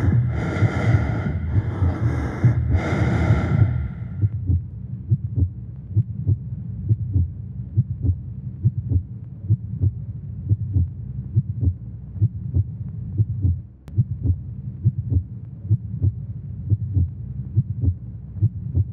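Loud rasping, breath-like bursts about once a second, which stop about four seconds in. After them come a low droning rumble and a steady heartbeat-like pulse about twice a second.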